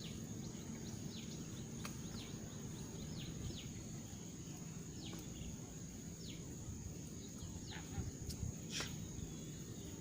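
Birds chirping, with many short downward-sweeping calls at irregular intervals, over a steady high-pitched whine and a low outdoor rumble. The chirps are a little louder near the end.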